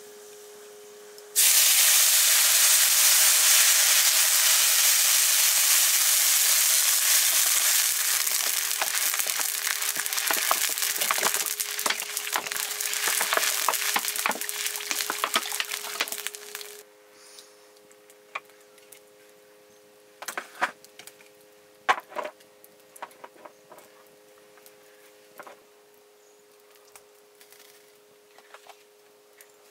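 Loud sizzling of food hitting hot oil in a cooking pan. It starts suddenly about a second in and crackles more and more as it goes. It dies down about sixteen seconds in, leaving scattered crackles and clicks.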